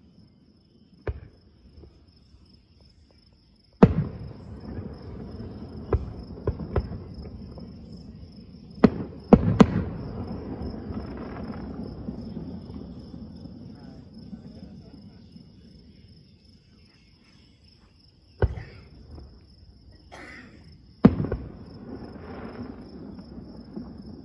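Aerial firework shells bursting in a series of sharp booms, each followed by a rolling rumble. The biggest bangs come about four seconds in and in a quick cluster around nine to ten seconds, with more near the end. Crickets chirr steadily underneath.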